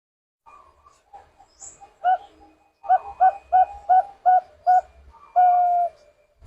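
Zebra dove (Bangkok-type perkutut) cooing: a single note about two seconds in, then a run of six short, evenly spaced coos about three a second, ending in one longer held coo.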